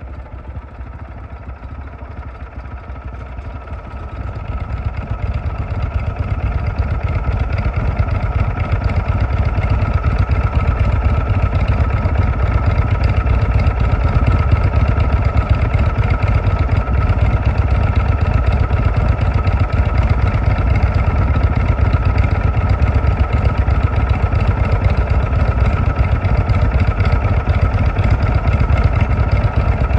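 Indian Chief Vintage motorcycle's V-twin engine idling with a steady low rumble. It grows louder over the first several seconds, then holds steady.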